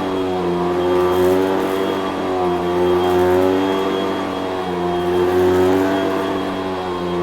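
Vacuum cleaner motor running, its pitch and loudness rising and falling about every two seconds as it is worked back and forth, over a thin steady high whine.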